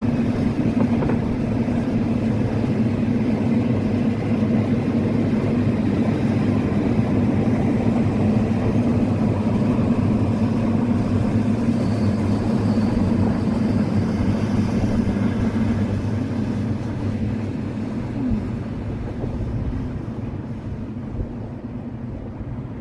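A train passing by with a steady low rumble that fades away over the last several seconds.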